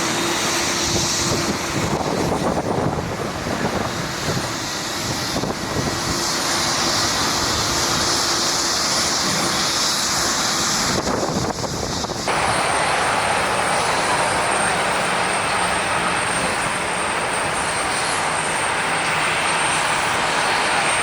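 Boeing 737-800 twin CFM56 jet engines running loud on departure. About twelve seconds in, the sound cuts abruptly to another 737-800 on its landing approach, with a steady high whine over the engine noise.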